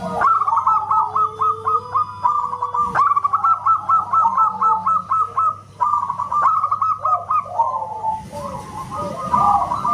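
Zebra doves (perkutut) singing: fast runs of short, hooked, high-pitched cooing notes with other calls overlapping beneath them, easing off briefly around the middle before picking up again. A faint steady low hum sits underneath.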